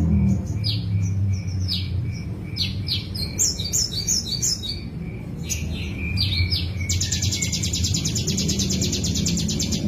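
A songbird singing: a run of quick separate chirps, then about seven seconds in a long, fast, rattling trill, over quiet background music.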